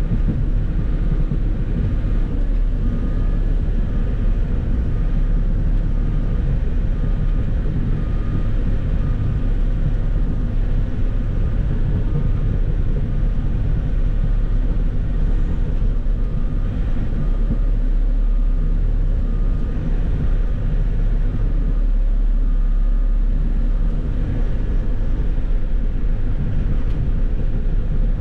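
Compact excavator's diesel engine running steadily, with a faint beep repeating at an even pace through much of it.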